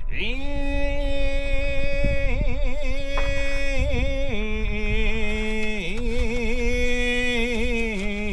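A man singing a Japanese folk song unaccompanied, drawing out one long syllable. The note is held and decorated with wavering turns, steps down in pitch about halfway through, and wavers again near the end, over a low rumble.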